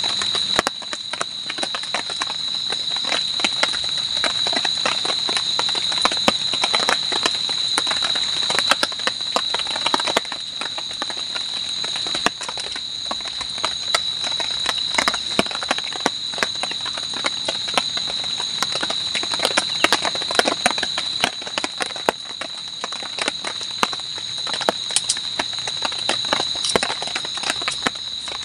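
Steady high-pitched drone of night insects, with frequent irregular clicks and taps.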